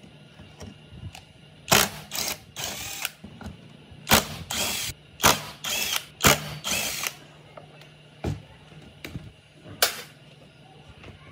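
Hand tool working on the parts of a Makita backpack blower, in several short bursts of ratcheting, clicking mechanical noise, bunched in two groups with one more burst near the end.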